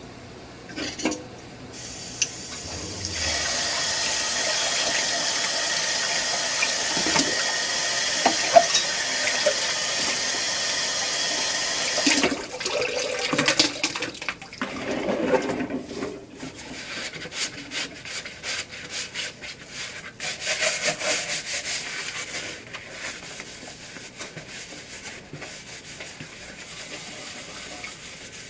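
Water running from a tap, starting about three seconds in and shut off about twelve seconds in, followed by irregular rubbing, knocks and clicks, as of things being washed and handled at a sink.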